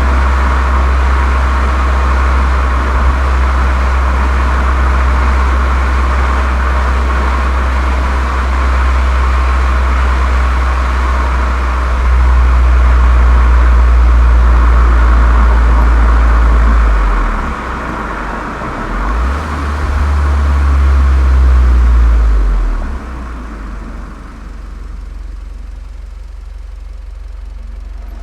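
Golf 7 GTI's turbocharged 2.0-litre four-cylinder engine running through an aftermarket Cox exhaust: a steady deep drone over a rushing hiss. It grows louder about twelve seconds in, dips briefly, surges again, then eases off to a quieter, duller drone near the end.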